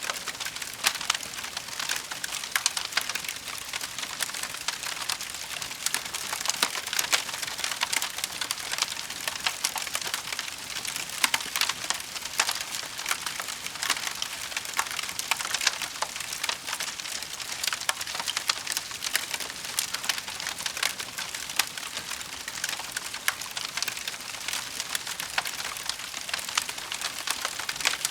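Wood fire burning in a fireplace, with a steady dense crackle of many small pops and snaps over a soft hiss.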